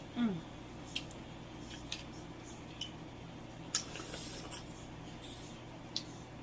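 Crab shells cracking and snapping while being eaten by hand: a string of sharp separate cracks, about one a second, the loudest nearly four seconds in.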